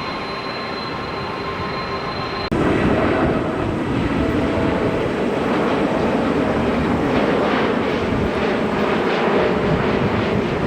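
Jet airliner engines running with a steady whine, cut off abruptly about two and a half seconds in by louder, rougher jet engine noise that holds to the end.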